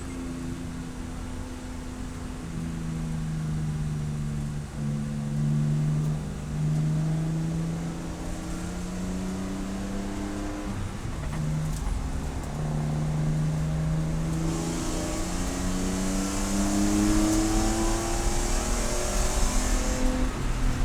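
Race car engine running under load, its pitch climbing and dropping several times as it accelerates and backs off. A steady hiss joins in about two-thirds of the way through and stops shortly before the end.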